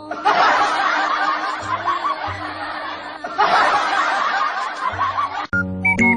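People laughing in two long stretches, many voices at once, with a short break in the middle; a plinky tune starts near the end.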